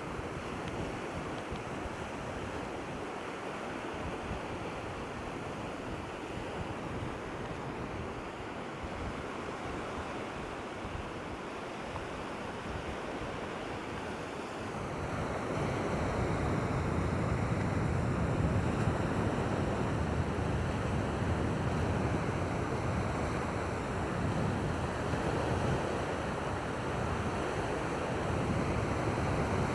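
Waves washing on the shore with wind buffeting the microphone; the wind noise grows heavier about halfway through as the wind picks up.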